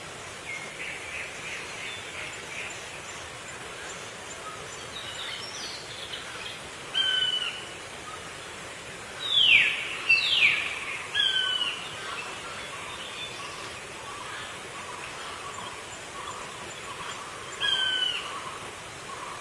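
Black drongo calling: short downward-slurred notes, repeated a few times, with two louder steep descending calls about a second apart near the middle, over a steady outdoor hiss.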